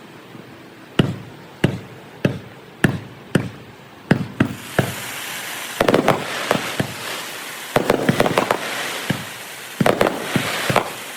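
Fireworks bursting overhead, played back at double speed. Starting about a second in, single sharp bangs come about every half second, then from about halfway denser clusters of bangs with crackling between them.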